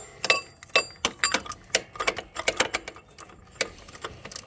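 Irregular metallic clicks and clinks of a cap-type oil filter wrench on socket extensions and a knuckle being worked against an ATV's spin-on oil filter, some strikes ringing briefly; the wrench keeps slipping off the filter cap.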